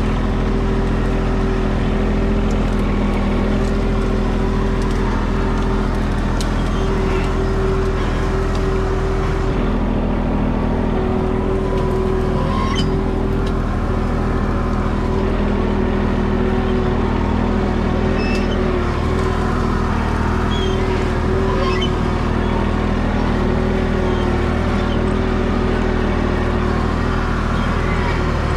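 Tractor diesel engine running steadily under load, its note shifting slightly about ten seconds in, with a few light rattling clicks.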